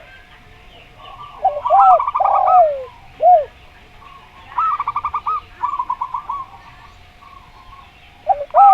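A spotted dove and a zebra dove cooing in turn. The spotted dove gives a few arched, falling coos about two seconds in and again near the end. The zebra dove gives a quick run of short staccato coos about five seconds in. Faint chirping from small birds sits behind them.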